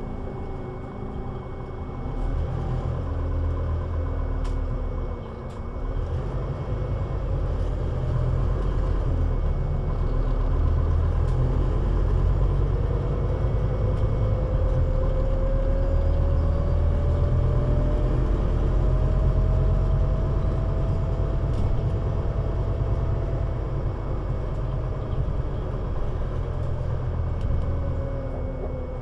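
Scania Citywide LFA three-axle city bus under way, its engine and drivetrain giving a heavy low rumble that grows louder about six seconds in as it pulls away. A whine climbs slowly in pitch through the middle and falls again near the end.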